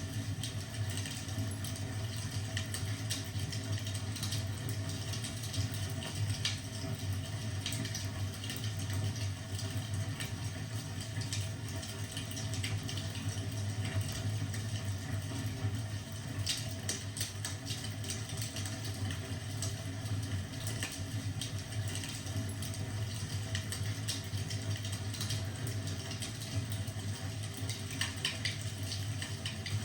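Wood fire in a fireplace crackling, with irregular small pops and clicks over a steady low hum.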